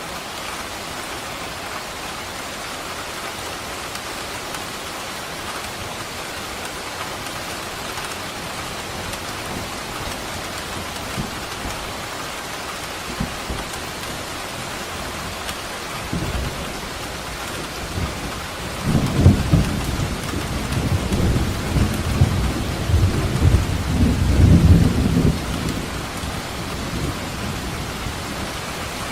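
Steady rain falling, with a long roll of thunder that builds from about halfway through, rumbles loudest for several seconds and then fades back under the rain.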